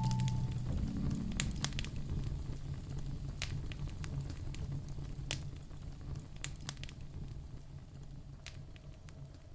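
Wood fire crackling: scattered sharp pops and snaps over a low steady rumble, the whole sound fading gradually.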